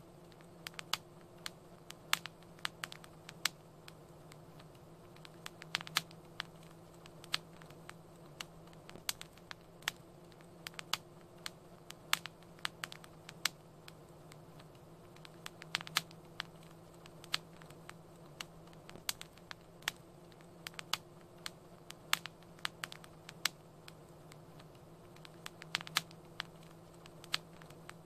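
Wood fire crackling in a fireplace: irregular sharp pops and snaps, several a second, over a faint steady low hum.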